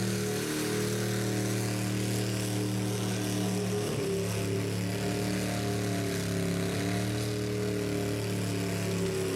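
A rat rod's engine held at steady high revs, as in a burnout, over a continuous hiss. The note dips briefly about four seconds in.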